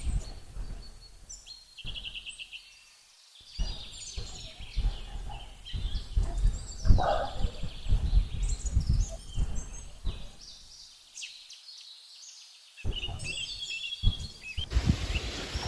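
Small birds chirping and calling, including a quick trill a couple of seconds in, over intermittent low rumbling.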